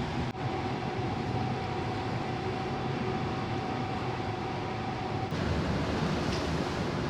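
A car ferry under way at sea: steady rushing noise of engines, wind and water with a faint steady hum. About five seconds in it changes abruptly to a deeper rush of wind and waves.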